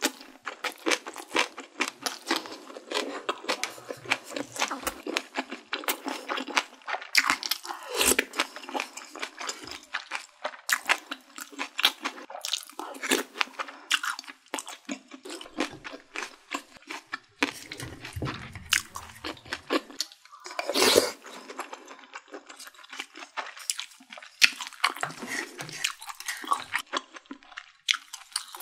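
Close-up mouth sounds of someone chewing food, with many quick, crunchy, wet clicks and smacks following one another irregularly.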